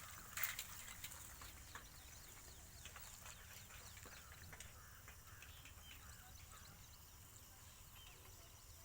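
Faint bird chirps, many short calls scattered throughout over a low background rumble, with one brief click about half a second in.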